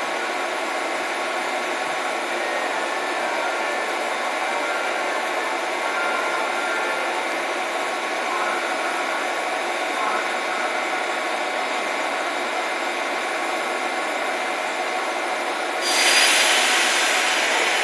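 JR Osaka Loop Line electric commuter train running at the station platform, a steady rumbling hiss. About sixteen seconds in, a sudden loud hiss of air starts and keeps going.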